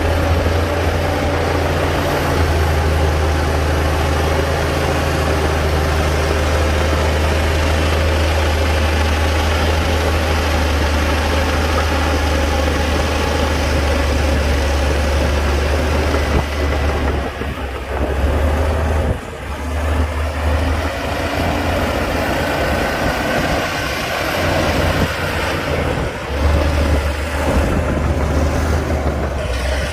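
Diesel engine of a Komatsu D60-P crawler bulldozer running steadily as it works dirt, a deep continuous drone that dips briefly a few times past the middle and near the end.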